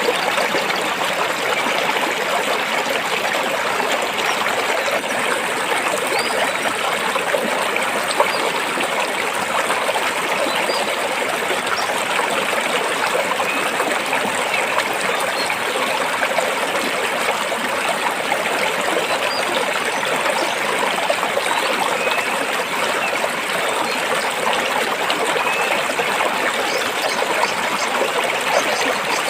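Stream of water flowing steadily over and between rocks, a continuous even rush and trickle, with a few faint high chirps now and then.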